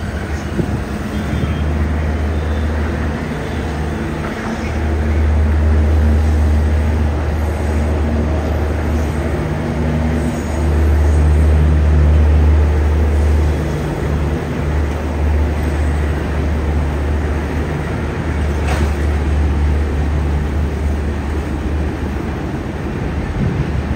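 Electric locomotive hauling a passenger train across a bridge: a steady low rumble of the train rolling past, swelling louder twice.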